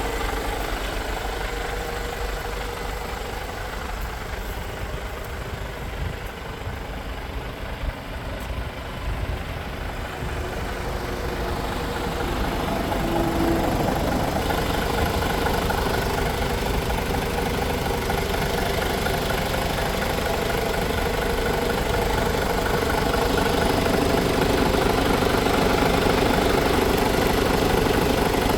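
Mercedes-Benz Actros 1843 truck's diesel engine idling steadily, growing louder from about twelve seconds in.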